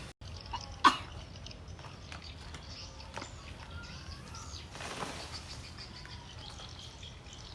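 Faint birds chirping in the background, with one sharp knock about a second in and a brief swish near the middle.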